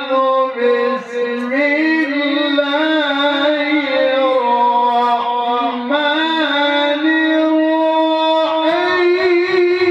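A qari's voice reciting the Quran in the melodic tilawah style: long held, ornamented notes that waver and bend between pitches, one unbroken phrase that climbs higher about nine seconds in.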